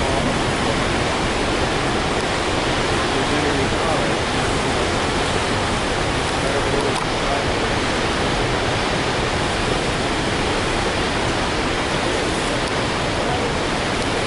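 Floodwater pouring out below a dam, a steady, unbroken rush of heavy water.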